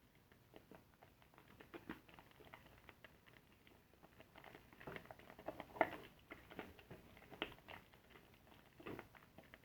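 Soapy car-wash sponge being squeezed and lathered: faint, irregular squishing and crackling of the wet lather, busiest about five to six seconds in.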